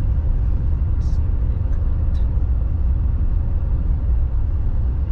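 Steady low rumble of a moving road vehicle, with a few faint ticks over it.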